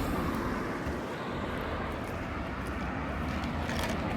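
Steady outdoor background noise with a low, uneven rumble and a few faint ticks.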